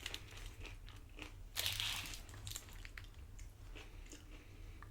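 Crunching bites and chewing of tortilla-chip nachos, a run of short crisp crunches with a louder crunch about a second and a half in.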